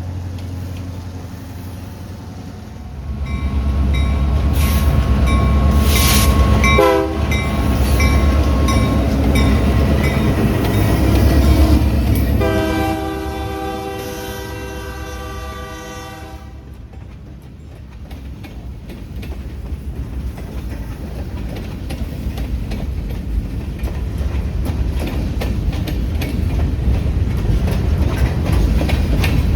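A train passing through a railroad crossing: the locomotive's engine rumbles in close while its horn sounds, the horn's pitch dropping sharply as it goes by. A second, longer horn blast follows, then the cars roll past with a clickety-clack that grows louder toward the end.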